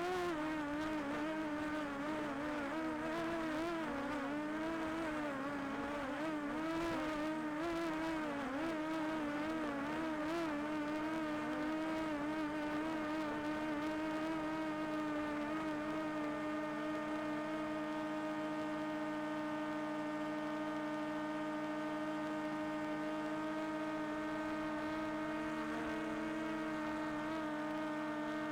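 DJI Air 2S quadcopter drone's propellers whining. The pitch wavers up and down for the first ten seconds or so, then settles to a steady hum as the drone holds a hover.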